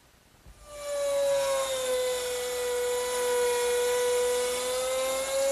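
Electric router with a 1/4-inch round nose bit cutting a slot in wood: a steady high whine that starts a little under a second in, its pitch sagging slightly under the load of the cut and rising again near the end.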